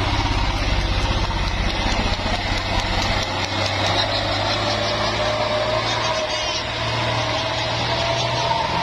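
Truck engine running steadily: a constant low hum with a rapid pulsing underneath, strongest in the first few seconds.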